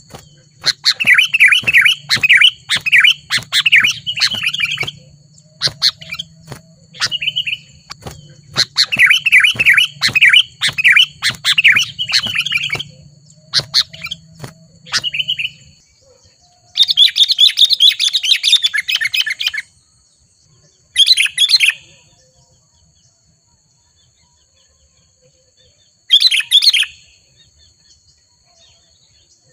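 Sooty-headed bulbuls singing loud bursts of quick, bubbly chirping phrases, several in a row with short gaps, then a long pause before two shorter phrases near the end.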